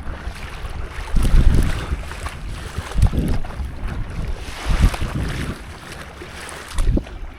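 Open-sea water sloshing around a stand-up paddleboard, with wind buffeting the microphone in low rumbling gusts about every two seconds.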